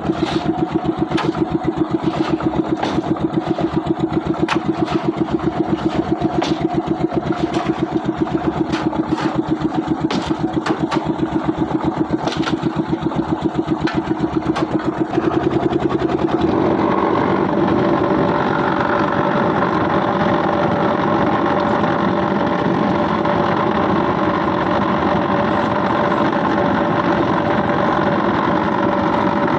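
Engine of concrete-pouring machinery running: a rapid pulsing run with scattered sharp clicks, which about halfway through changes to a steadier, higher-pitched run.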